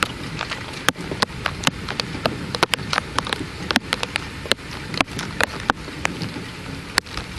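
Rain falling steadily in a thunderstorm, with many sharp, irregular drop impacts ticking on a hard surface close by.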